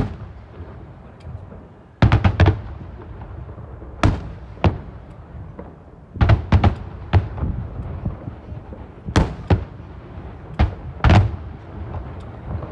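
Aerial fireworks shells bursting overhead: sharp bangs every second or two, some single and some in quick clusters of three or four, each followed by a low rumble.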